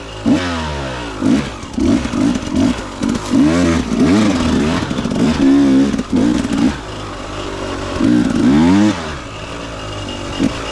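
Dirt bike engine revved in repeated short throttle bursts, its pitch rising and falling again and again, then settling to steadier running near the end.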